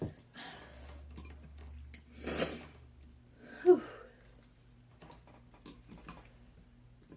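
A person breathing hard and eating at a table, with a sharp breath about two seconds in, a short falling vocal sound soon after, and light clicks of cutlery against a dish.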